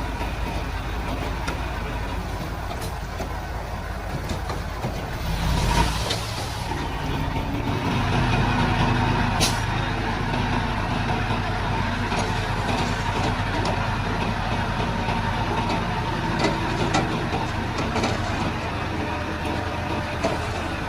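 Heavy diesel earthmoving machinery running steadily, with a short burst of hissing about five to six seconds in. The engine grows louder from about eight seconds, with a sharp click soon after.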